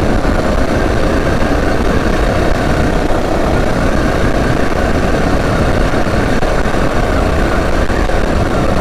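Predator 212 single-cylinder four-stroke engine running steadily as the mini bike is ridden at speed, mixed with heavy wind buffeting on the microphone. The engine is modified and still being broken in.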